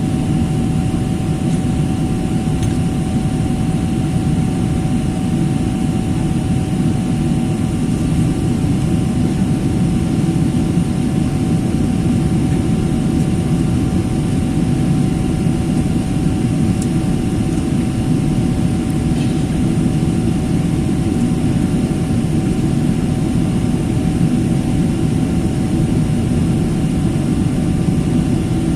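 Steady airliner cabin noise: a low, even rumble of jet engines and airflow with a thin, steady tone above it and no change in pitch or level.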